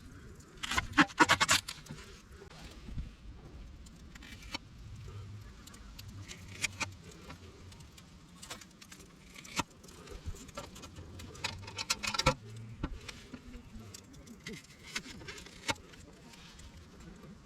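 Scattered light metallic clinks and knocks of cookware and utensils being handled, with a quick run of clinks about a second in and another sharp one near the twelve-second mark.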